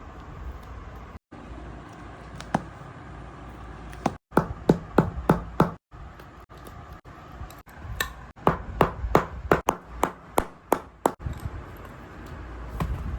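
A hammer tapping in two quick runs, about four blows a second: about five blows, a pause, then about nine more.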